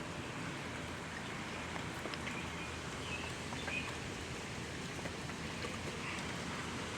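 Steady hiss of rain falling, with a few faint short chirps.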